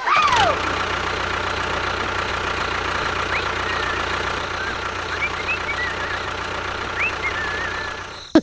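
Small motor of a DIY toy construction vehicle running steadily with an even whine, with a falling glide right at the start and a few short high chirps later on.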